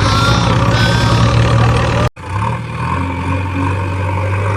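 Tractor engine sound running steadily with a low hum, cut off abruptly about two seconds in and then resuming. Two short high tones come near the start.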